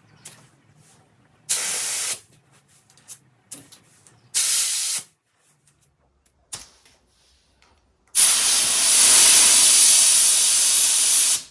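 Compressed air hissing through an air chuck at a tire valve while the tire is topped up by about five psi: two short bursts, then a steady fill of about three seconds near the end.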